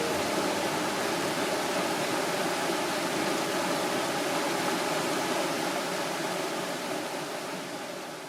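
Waterfall: a steady rush of falling water that fades away near the end.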